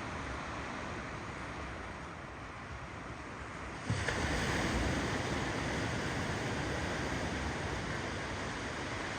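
Ocean surf: a steady rush of rolling waves that jumps louder and brighter about four seconds in as a wave breaks.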